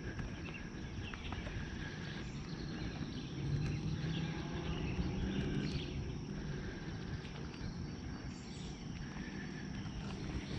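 Outdoor wetland ambience: small birds chirping in short repeated notes over a steady low rumble. The rumble swells louder from about three and a half seconds in until about six seconds.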